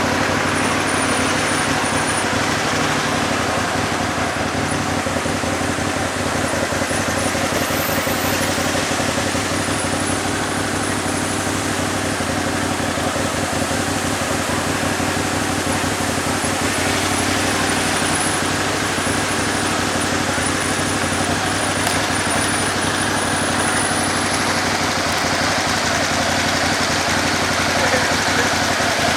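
Motorcycle engine running steadily while the bike is ridden, under a constant noisy rush of moving air and traffic.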